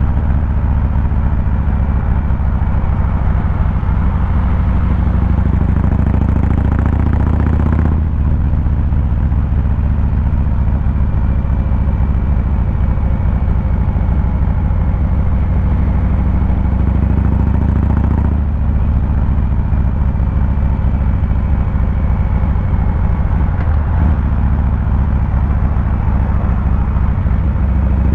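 Harley-Davidson Fat Boy 114's Milwaukee-Eight 114 V-twin engine and exhaust running steadily under way, a deep low rumble, with the note changing suddenly about eight seconds in and again about eighteen seconds in.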